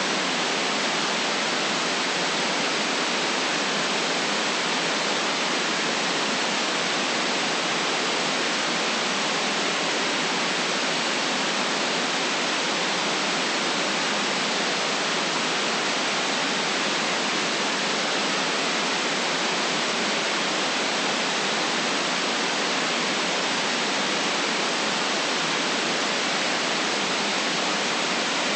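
Steady white noise: an even, unbroken hiss with no changes or events.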